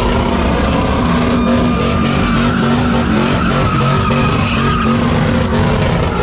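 Truck doing a burnout: engine held at high revs while the tyres spin and squeal against the pavement.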